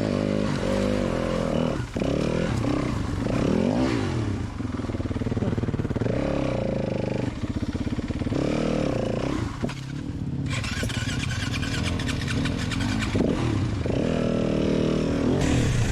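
Dirt bike engine revving up and dropping back again and again as the throttle is worked. From about ten seconds in there is a few seconds of rattling, clattering noise over the engine.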